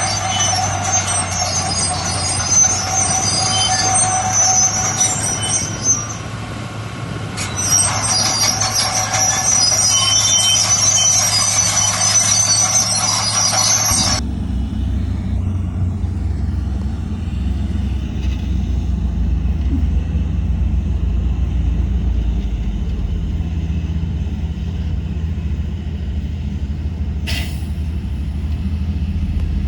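Heavy diesel machinery working: for about the first half, high-pitched metallic squealing and hiss over the machine's sound. It then changes abruptly to a steady low engine rumble, with one sharp click near the end.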